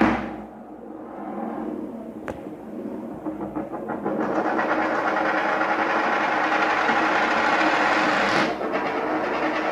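Coins clattering down with a sharp crash that dies away, a single click, then from about four seconds in a steady, dense rattle of many coins that goes on to the end.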